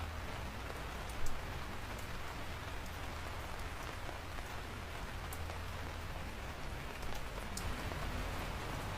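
Steady rain falling on a surface, with a few sharp drop ticks and one louder tap about a second in.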